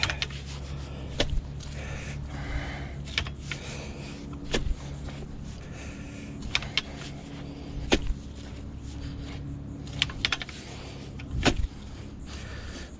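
Digging in sandy soil: a few sharp strikes and scrapes of a digging tool, about one every three to four seconds, over a steady low hum.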